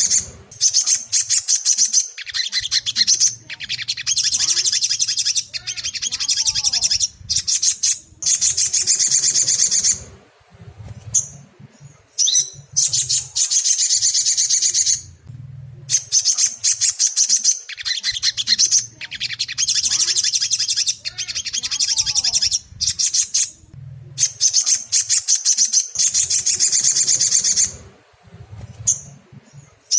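Sogon (sunbird) song: rapid, high twittering phrases of a second or two each, repeated with short breaks between them. This is a lure recording played to trigger a captive sogon into singing.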